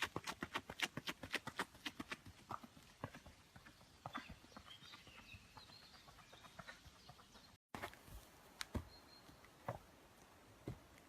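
Rhythmic knocks, like feet or hooves striking the ground, about four a second at first, then thinning out to scattered single knocks, with a brief break about two-thirds of the way through.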